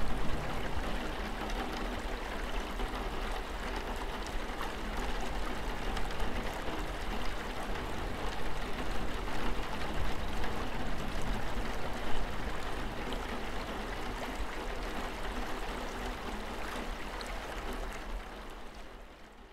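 Steady rain, a continuous hiss with scattered drop ticks over a low rumble, fading out near the end.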